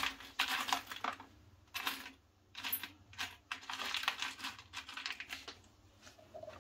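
Bursts of rapid clicking and clattering from small hard parts being handled, with short pauses between bursts.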